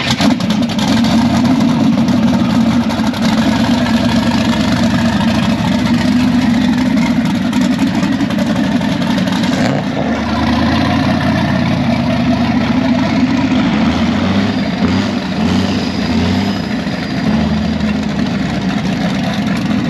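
Car engine running steadily at a constant pitch with a deep drone, without clear revving.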